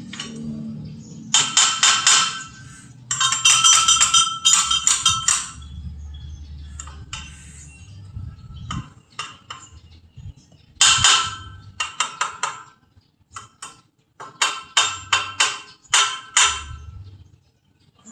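Hammer blows on metal, ringing sharply, in runs of quick strikes separated by short pauses, as when sheet metal is beaten into shape for a fabricated part.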